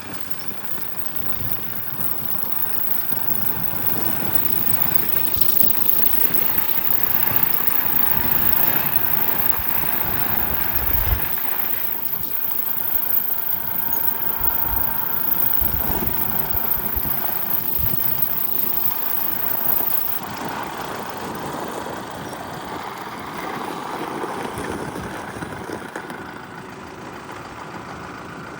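Kubota M5-091 tractor's diesel engine running, growing louder over the first several seconds, then dropping noticeably about twenty seconds in.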